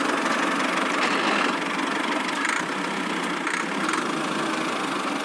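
An engine or motor running steadily at an even speed, with no change in pace.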